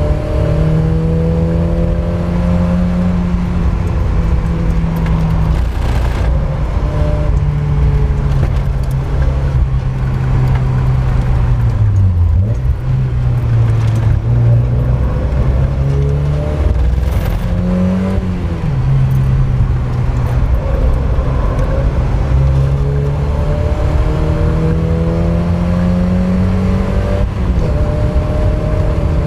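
Mk1 Mazda MX-5's four-cylinder engine run hard on a race track. Its note climbs through the revs and drops at gear changes. It falls sharply about twelve seconds in, then climbs again, with a steady rush of wind and tyre noise underneath.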